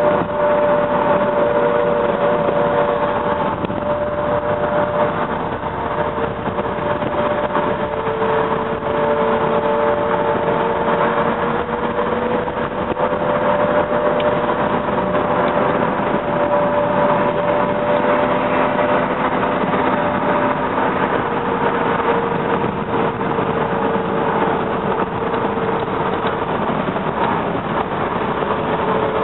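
Steady running noise of a moving commuter train heard from aboard: a constant rumble of wheels on rail, with a couple of steady hums that drift slowly up and down in pitch.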